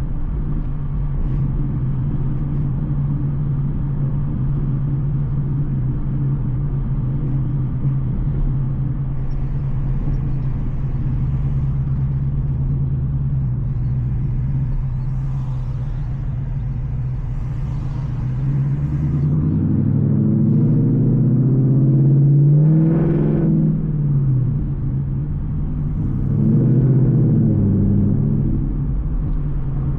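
Straight-piped Ford Mustang GT's 5.0 L V8 exhaust droning steadily at cruise. About two-thirds of the way in it revs up under acceleration, the pitch climbing and falling back. A shorter rise and fall comes near the end.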